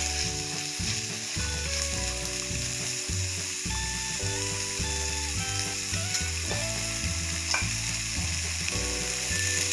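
Diced potatoes and onion sizzling as they fry in oil in a pan, stirred with a spatula. A steady background tune runs underneath.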